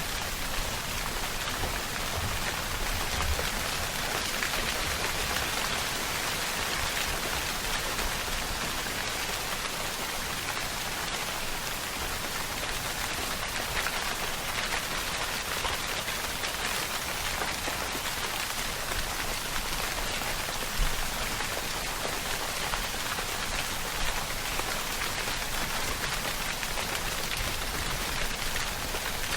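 Steady rainfall: a dense, even patter of raindrops on a surface, with an occasional brief low thump.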